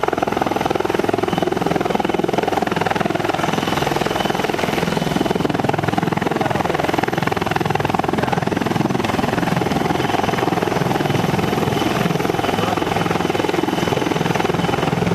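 Helicopter rotor and engine noise, steady and loud.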